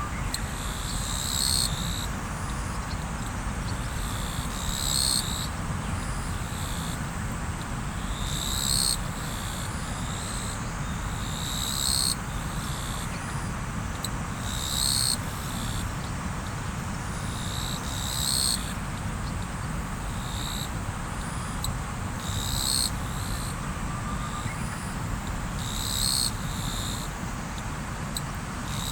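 River water running with a steady low rush. Short high chirps repeat every second or two above it.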